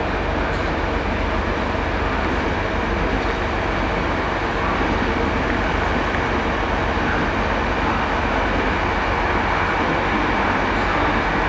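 Passenger train moving slowly through the station: a steady rumble of the train running on the rails.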